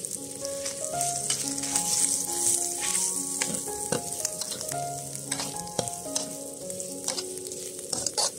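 Pork offal and chili paste sizzling in a hot wok, stirred with a metal spatula that scrapes against the pan several times.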